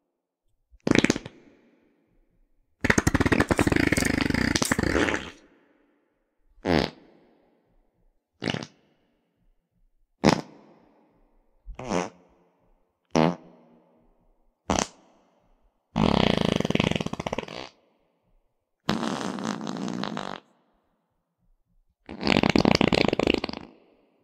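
A series of fart sounds: about eleven raspy, buzzing blasts with silences between them. Most are short, and a few near the start and in the second half last one and a half to two and a half seconds.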